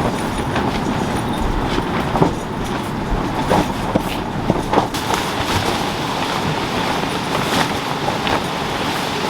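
Steady rain, with heavy drops tapping irregularly on a surface.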